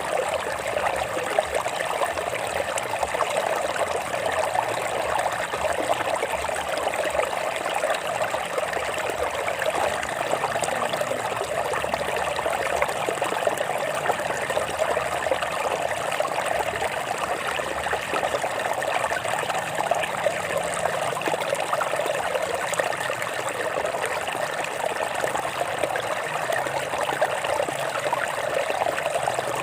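Water running steadily over rocks in a stream, a constant babbling and trickling.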